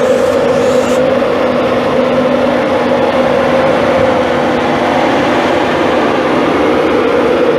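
Passenger train moving along the platform: a loud, steady running noise with a constant low hum.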